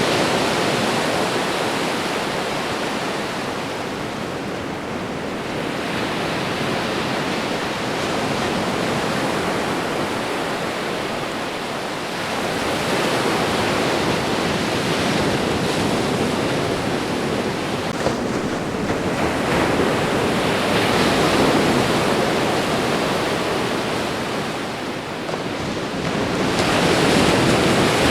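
Ocean surf washing onto a shore: a continuous hiss of breaking water that swells and eases every several seconds.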